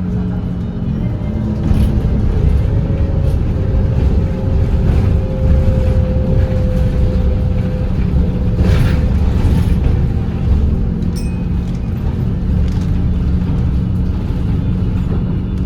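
Volvo B8RLE double-decker bus's diesel engine and running gear at highway speed, heard from inside the bus: a heavy steady rumble with a tone that rises slightly and then holds, and a few brief knocks.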